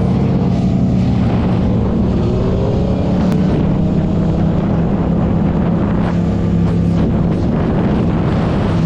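Motorcycle engine running steadily and loudly, with a second engine faintly rising and falling in pitch as it revs.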